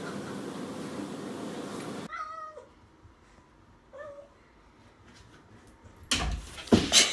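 A cat meowing twice, two short calls about two seconds apart, after a steady background hiss cuts off. Near the end come several loud knocks and thumps.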